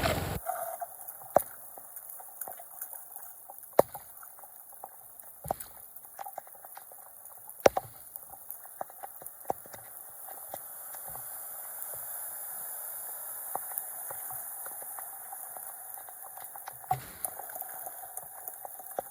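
Floodwater draining away, gurgling and trickling, swelling a little in the middle. Several sharp clicks or knocks stand out, the loudest about four and eight seconds in.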